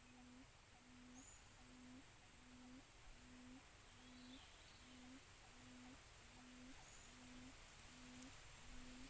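Forest quail giving its low hooting call: one short note repeated evenly, about twice a second, each note lifting slightly at its end.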